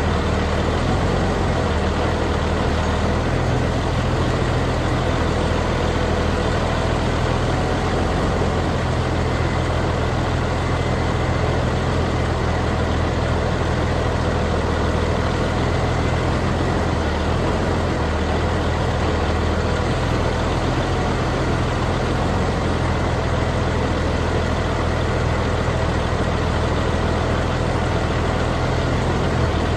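Large engine running steadily at an even speed, a constant low hum with no revving and no impacts.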